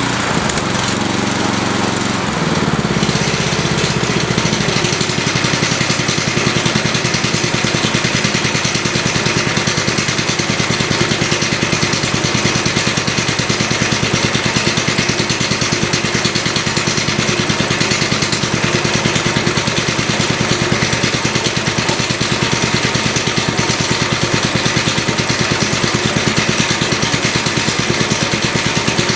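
DR brush mower's 10.5 hp Briggs & Stratton Industrial/Commercial single-cylinder engine running. Its speed shifts in the first few seconds, then holds steady.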